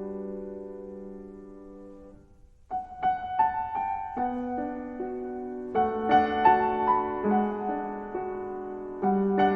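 Background piano music: a held chord fades away, then after a short pause a slow, gentle melody begins over soft chords.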